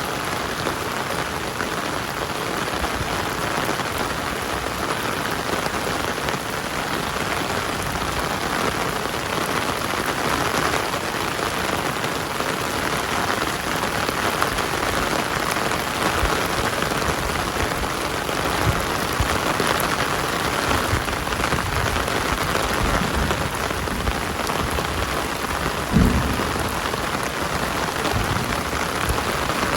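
Heavy rain falling steadily, with scattered low thumps in the second half, the strongest about 26 seconds in.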